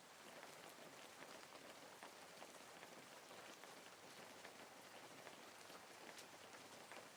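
Faint steady rain, an even hiss dotted with many small drop ticks.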